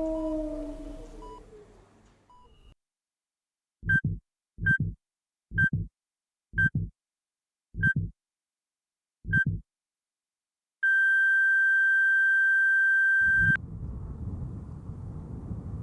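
Heart monitor beeping six times, each beep with a low heartbeat thump under it, the beeps coming further and further apart, then a single long flatline tone that cuts off suddenly: the heart stopping. A held tone fades out in the first two seconds, and a steady low rumble of ambience comes in near the end.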